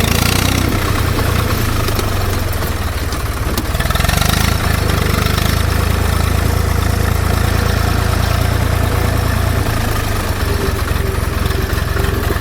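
Zetor 4911 tractor's diesel engine running steadily at low revs, swelling briefly about four seconds in.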